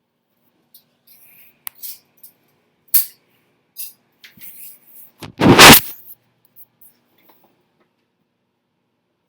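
Dishes and utensils in an open dishwasher knocking and clinking as they are handled, with a few scattered light clinks and one loud clatter about halfway through.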